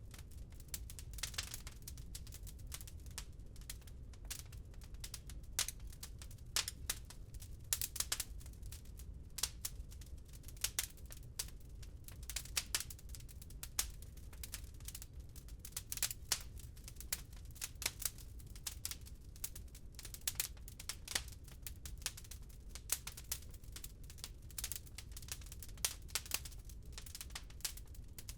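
Log fire in a fireplace crackling: irregular sharp pops and snaps over a steady low rumble.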